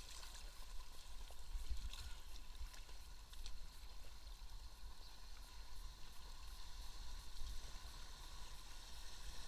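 Steady rush of river water around a moving kayak, with a fluctuating low rumble and a few faint knocks or splashes, about two and three and a half seconds in.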